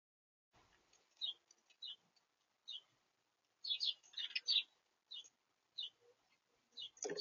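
Small birds at a feeder chirping: short, high chirps every half second or so, with a quick run of several in the middle. A low thump comes near the end, alongside a chirp.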